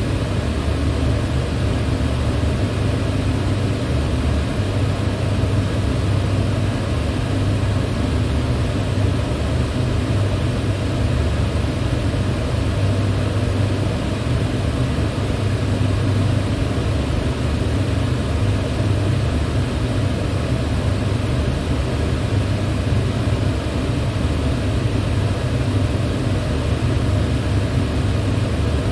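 Electric fan running steadily, a constant whooshing hum of blades and motor with most of its weight in a low drone.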